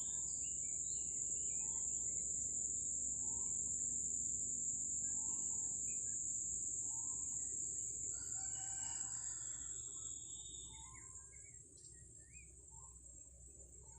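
A rooster crowing once about eight seconds in, over a steady high-pitched insect drone and scattered short bird chirps.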